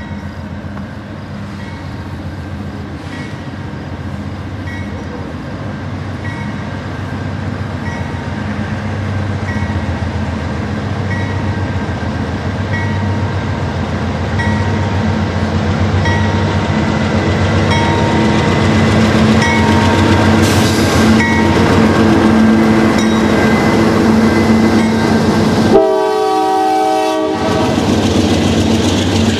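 CSX coal train led by GE AC4400CW diesel-electric locomotives, with 16-cylinder diesel engines, approaching and passing. The low engine drone grows steadily louder, and a short horn blast sounds about 26 seconds in.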